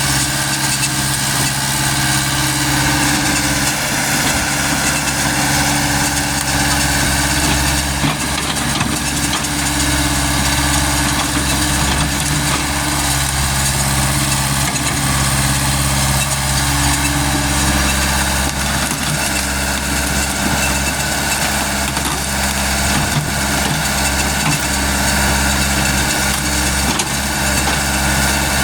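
Caterpillar excavator's diesel engine running steadily, its note shifting slightly now and then.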